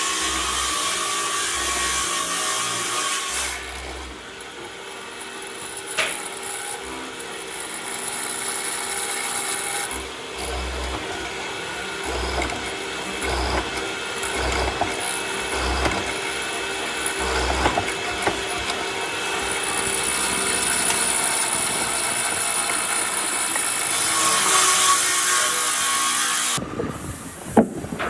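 Power tools working wood, running in several short stretches that change abruptly from one to the next.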